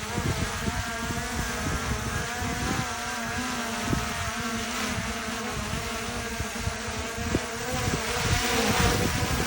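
DJI Mini 4 Pro quadcopter's propellers buzzing, their pitch wavering up and down as the motors work against gusty wind. Wind buffets the microphone throughout, with a stronger gust near the end.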